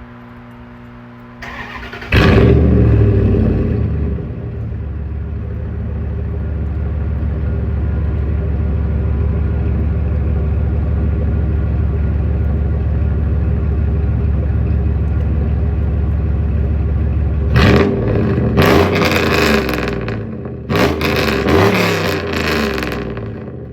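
2003 Ram 2500's 5.7-litre Hemi V8 exhausting through a 3-inch straight pipe with no catalytic converters or mufflers. It is cranked and fires about two seconds in with a loud flare, then settles to a steady idle. Near the end it is revved several times in quick blips and drops back toward idle.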